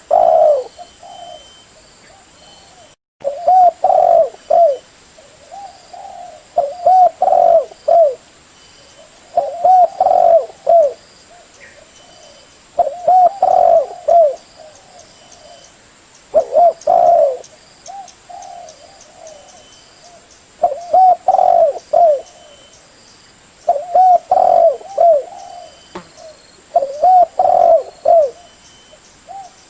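Spotted dove cooing: phrases of several low coos, one phrase every three to four seconds, with a brief gap in the sound about three seconds in.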